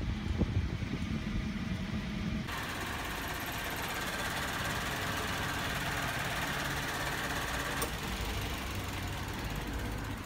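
Toyota four-cylinder VVT-i petrol engine idling. It is heard first from inside the cabin as a low rumble, then, about two and a half seconds in, close up under the open hood, brighter and with a steady high whine until about eight seconds in.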